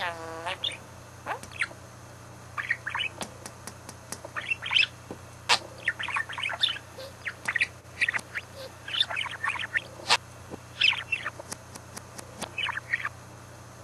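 Budgerigar chattering: quick runs of short chirps, clicks and squawks in bursts with brief pauses between them.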